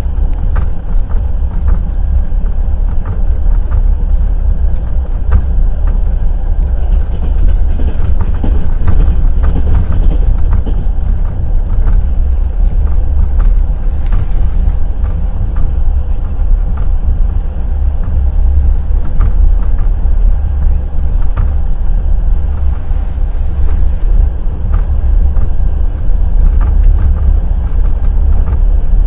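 Passenger train wheels clattering over the rails at speed: a loud, steady low rumble with frequent sharp clicks and knocks from the wheels and rail joints.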